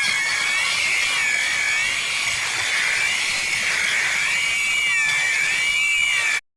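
A high-pitched whistling tone: one steady pitch with a second pitch wavering slowly up and down around it, about once a second. It cuts off abruptly near the end.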